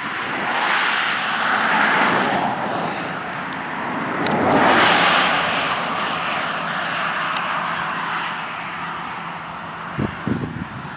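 Passing motor traffic: a rushing noise of tyres and engines that swells twice, early and again about five seconds in, then fades.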